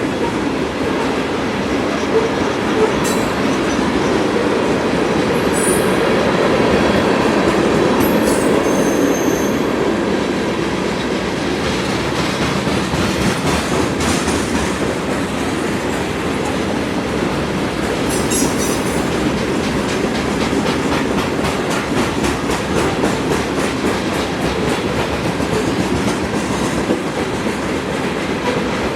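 Freight train cars rolling past steadily, wheels clacking over the rail joints, with several brief high-pitched wheel squeals.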